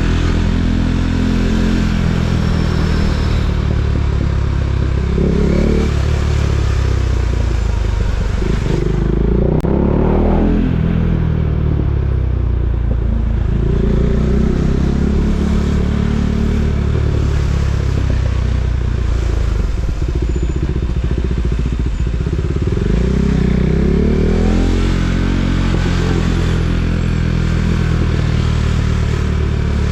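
KTM Duke 390's single-cylinder four-stroke engine running while the bike rides in traffic, the revs climbing and dropping back again and again as it accelerates and eases off.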